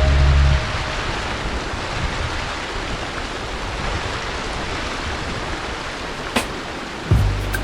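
Background music breaks off about half a second in, leaving a steady rush of running water; a single click sounds near the end and the music comes back just after.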